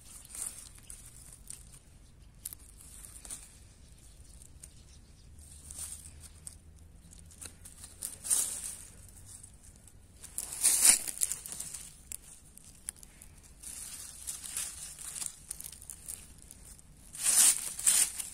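Wild greens being picked by hand: short bursts of leaves and stems tearing and rustling, loudest about ten seconds in and again near the end.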